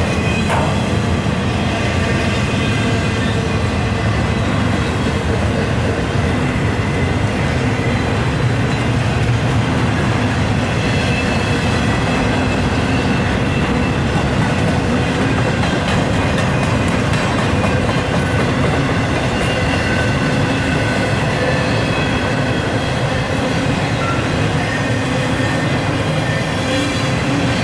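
Empty intermodal flatcars of a Norfolk Southern freight train rolling past: a steady, even rumble of steel wheels on the rails. Faint high wheel-squeal tones are held over it, with an occasional click.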